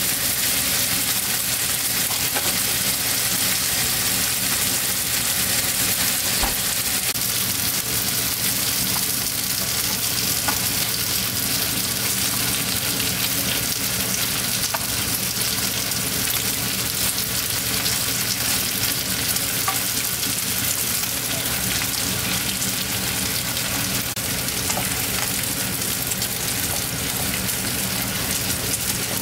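Sliced pork belly sizzling steadily in hot fat in a frying pan, with a few faint clicks of metal tongs turning the pieces.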